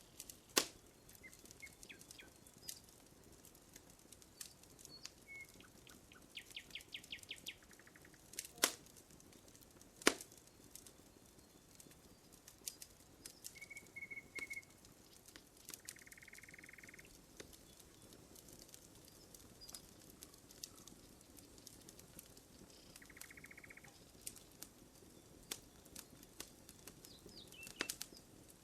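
Wood fire crackling, with scattered sharp pops, three of them louder than the rest. Small birds call in the background with short chirps, a quick trill and a run of three notes.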